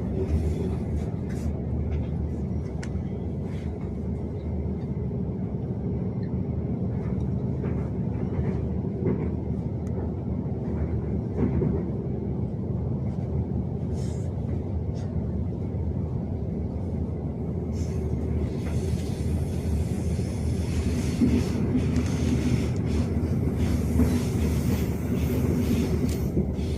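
Steady low rumble of a moving vehicle with scattered light clicks and rattles; a hiss joins in about two-thirds of the way through.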